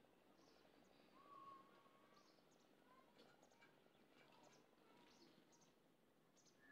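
Faint birdsong: scattered short chirps and a brief whistled note about a second in, over a very quiet outdoor background.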